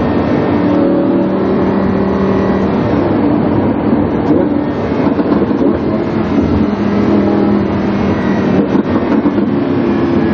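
Lamborghini Huracán's 5.2-litre V10 running through a PowerCraft aftermarket exhaust, recorded onboard while driving. The exhaust note holds fairly steady, its pitch shifting a little, with a rougher stretch in the middle.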